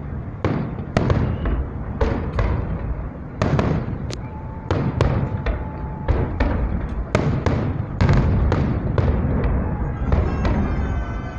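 Fireworks display: aerial shells bursting in a rapid, continuous barrage of sharp bangs, several a second at times, over a steady low rumble of overlapping reports and echoes.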